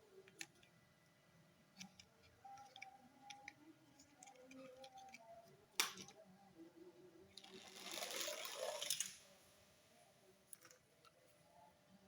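Small toy model cars being handled: scattered light clicks and taps, one sharp click a little under six seconds in, and a rustling scrape lasting about a second and a half around eight seconds.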